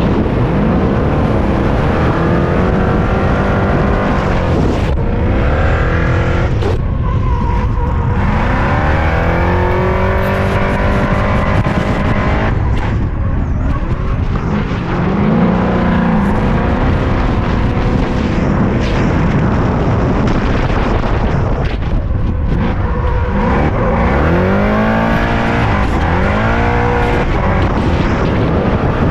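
A car engine driven hard on a racetrack. It revs up through the gears again and again, the pitch climbing and then dropping back at each shift, with quicker rising sweeps near the end.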